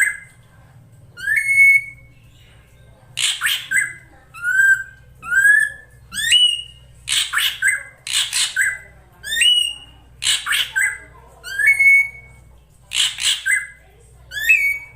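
Female drongo (srigunting) calls used as a lure for males: harsh, rasping squawks alternating with short whistles that slur upward, repeating every second or two.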